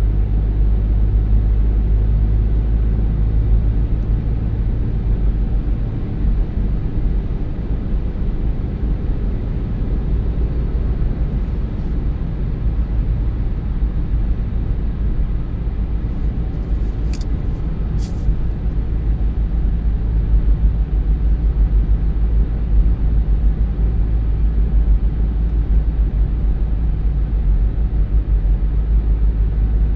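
Car driving along a road: a steady low rumble of tyres and engine. Two short sharp clicks come about two-thirds of the way through.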